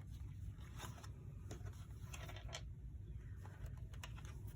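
Pages and paper pieces of a handmade junk journal being handled: light paper rustling with a few soft taps and clicks, over a low steady hum.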